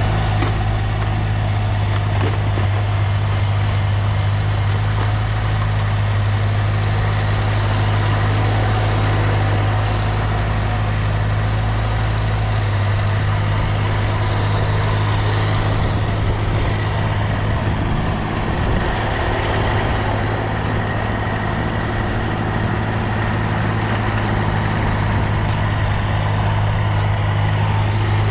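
Massey Ferguson tractor's engine running steadily with a strong low hum while clearing snow; the sound dulls slightly about sixteen seconds in.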